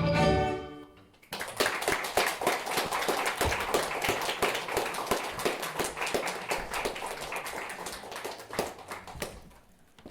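The last notes of a song ring out, then an audience applauds for about eight seconds, fading out near the end.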